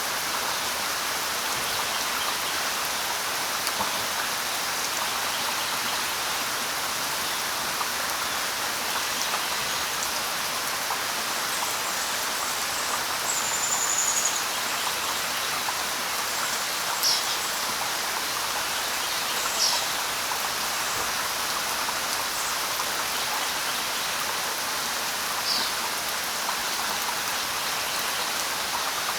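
Steady light rain pattering, with a few short, high bird chirps scattered through it.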